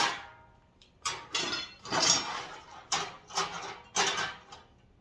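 Parts of a flat-packed tool storage rack being handled and unpacked: a run of about six short knocks and rattles.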